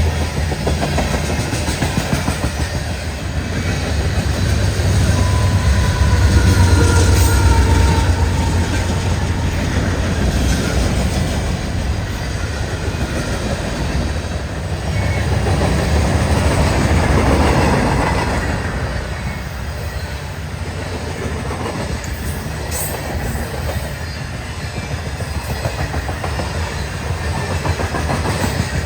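Train rolling past, a steady rumble with the wheels clattering over the rail joints. It grows louder about a quarter of the way in and again past the middle, with a faint thin squeal from the wheels early on.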